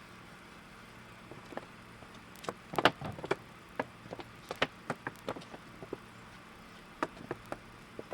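Irregular light clicks and knocks, about twenty of them, with the loudest cluster about three seconds in, over a faint steady hum.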